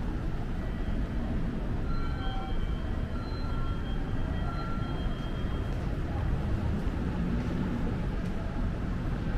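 Steady rumble of vehicles, with a few brief high tones about two to five seconds in.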